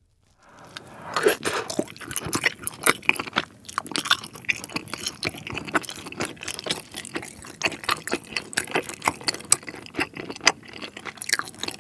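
Close-miked chewing of a chewy, sauce-coated rice cake (tteok): a fast, dense run of wet mouth smacks and sticky clicks that starts about half a second in.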